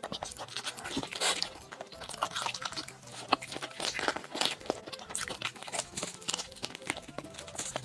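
Close-up eating sounds: a person biting, tearing and chewing food, with irregular crunches and wet clicks.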